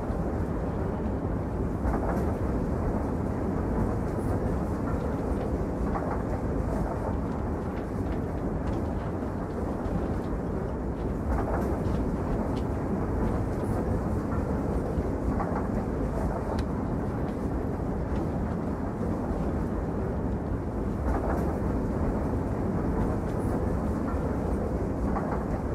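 A moving train: a steady rumbling run with faint clicks every four or five seconds.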